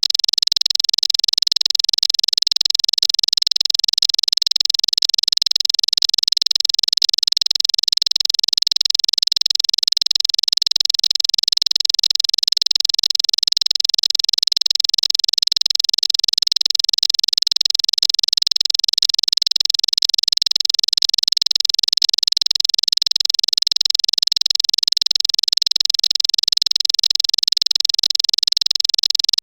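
Bar-winged prinia (ciblek) giving its rapid 'cetrekan' rattling chatter: a fast, unbroken, high-pitched song that stays steady throughout.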